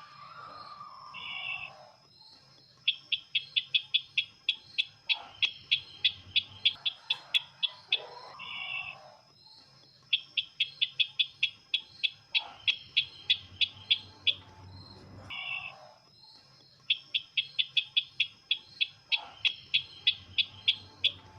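Call of the sisintar ladang bird, played as a lure call: a fast series of sharp chips, about six a second for a few seconds, then a short buzzy note, the same phrase repeating three times at even spacing. A faint steady high tone runs underneath.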